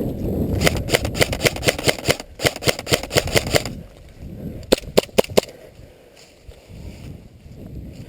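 Airsoft rifle firing a rapid string of sharp shots, about six a second for roughly three seconds, then four more quick shots a second later. Low rustling before the shots.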